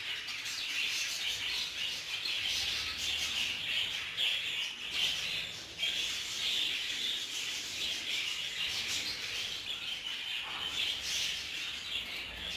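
Budgerigars chattering and chirping continuously in a dense, unbroken stream of calls.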